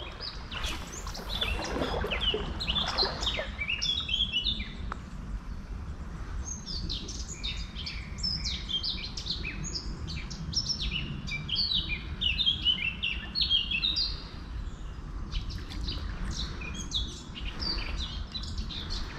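Songbirds singing: many quick chirps and trills, busiest from about six seconds in, over a steady low rumble.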